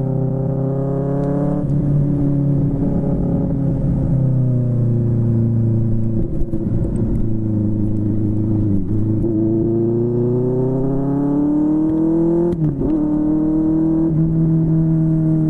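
Inline-four engine of a QJMotor SRK600 motorcycle running through a Yoshimura R11 exhaust. Its pitch sinks slowly, dips sharply about nine seconds in, climbs for a few seconds, breaks briefly, then holds steady as the throttle and revs change.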